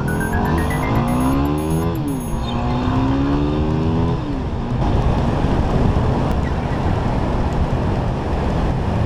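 Yamaha WR250R dual-sport motorcycle's single-cylinder engine accelerating: the revs climb, drop at a gear change about two seconds in, and climb again. About four seconds in this gives way to a steady rushing noise of riding at speed.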